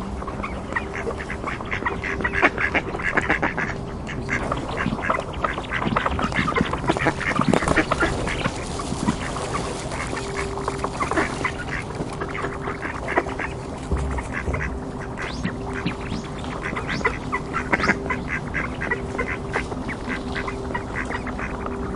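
Ducks quacking, many short calls overlapping in quick runs, busiest in the first half and again near the end, over a faint steady hum.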